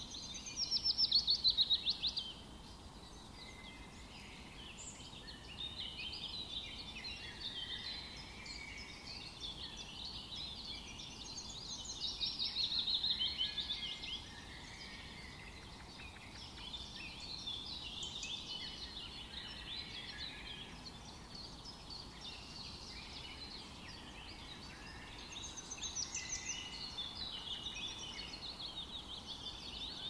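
Birds chirping and trilling in many overlapping high calls. Louder, fast descending trills come just after the start, around the middle and near the end.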